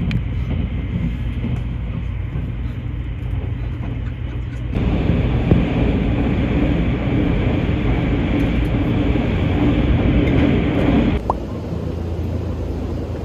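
Steady rumble of a moving vehicle, with a louder, brighter stretch in the middle that starts and stops abruptly.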